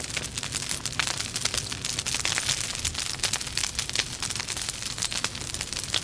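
Logs burning in a fireplace, crackling with a dense run of small sharp pops over a steady hiss.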